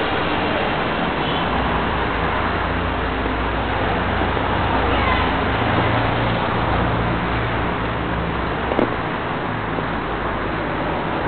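A low, steady engine rumble over a hiss of street noise, stronger through the middle, with a single short knock near the end.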